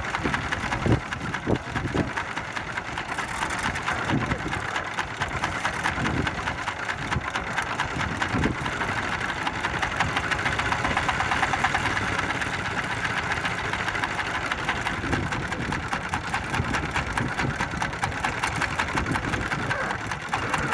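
Small fishing boat's engine running steadily with a fast, even pulsing, with a few low thumps in the first half.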